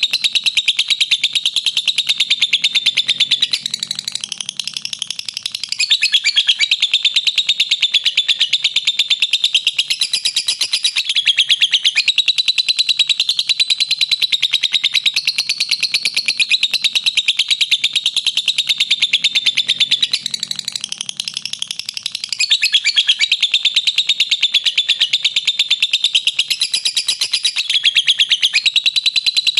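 Lovebird chattering in a long unbroken 'ngekek': a very fast run of shrill chirps that goes on and on. It eases off briefly twice, once after about four seconds and again about two-thirds of the way through.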